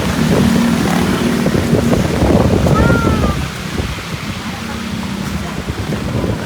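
Strong wind buffeting the microphone over the hiss of heavy rain, with vehicle engines running in street traffic. A brief high squeak about three seconds in.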